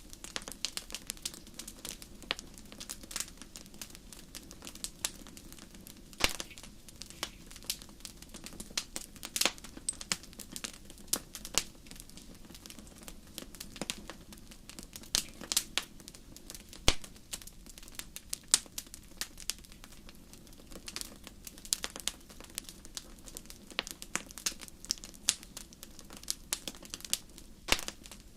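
Wood fire crackling in a fireplace: irregular sharp pops and snaps, several a second and varying in strength, over a steady low hum.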